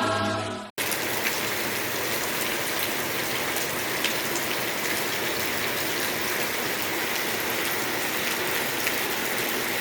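Steady rain falling, an even rushing hiss with scattered sharper drop ticks.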